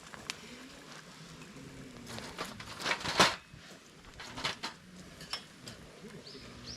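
Several short knocks and clinks of objects being handled, the loudest a cluster of clatter about three seconds in, then a few lighter clicks.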